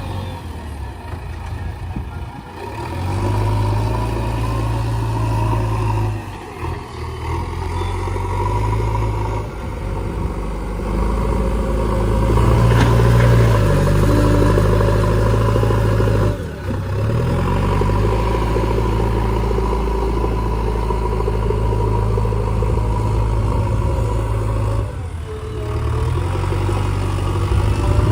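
Heavy diesel engines running, revving up and dropping back several times with brief dips in between.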